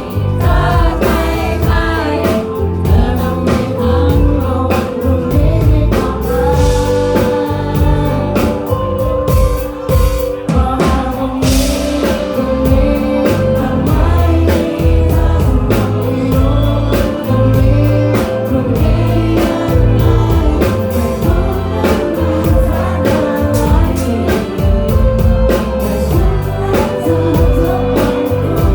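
Live band playing a song, amplified, with singing over drums and bass.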